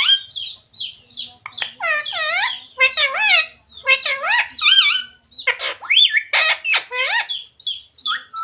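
Talking parrot vocalising in a high, squawky voice: a run of quick, talk-like syllables with sliding pitch, grouped in short phrases with brief pauses.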